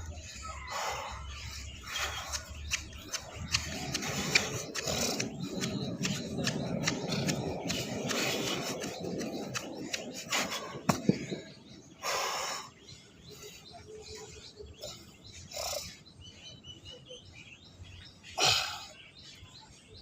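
Birds chirping over a background of noise that is louder through the first half, with scattered short clicks.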